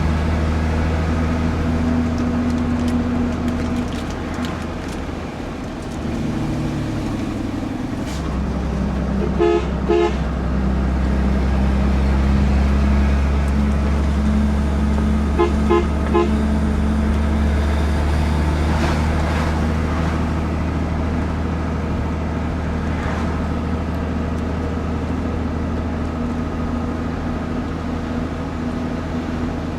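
Truck engine running steadily on the road, its note changing about four to eight seconds in. A vehicle horn toots twice about ten seconds in and three times quickly about sixteen seconds in.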